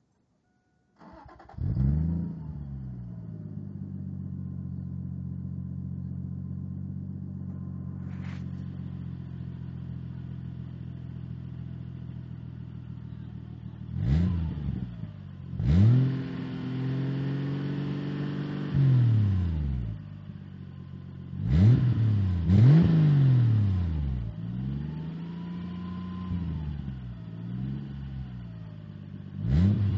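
Toyota Supra MK3's turbocharged 7M-GTE straight-six, breathing through a 3-inch custom turbo-back exhaust, starting about a second in and settling to a steady idle. From about halfway it is revved in a string of throttle blips, one held for a few seconds before the revs drop back to idle.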